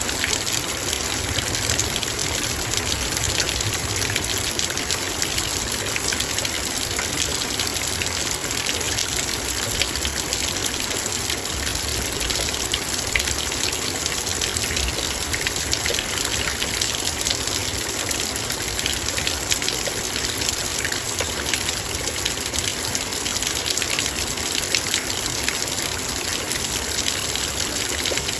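Heavy rain drumming steadily on a metal bowl: a dense, even hiss of raindrops with countless small sharp ticks of drops striking the metal.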